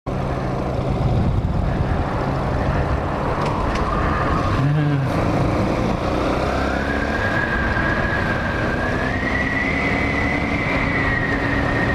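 Hawk 250 motorcycle running while being ridden, with wind rushing over the microphone and a high whine that rises in two steps in the second half.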